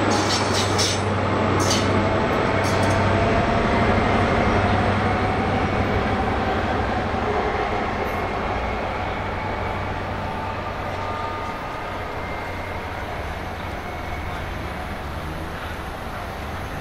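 Train passing on the line: a steady low rumble with a few sharp clicks in the first three seconds, growing slowly fainter as it moves away.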